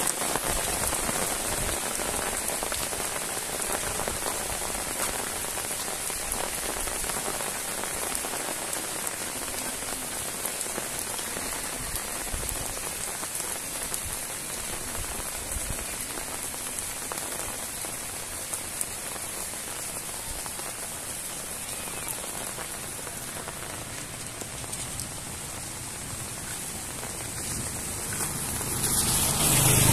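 Steady heavy rain falling on a wet paved road and roadside plants, an even hiss. In the last second or two a vehicle engine grows louder as it approaches.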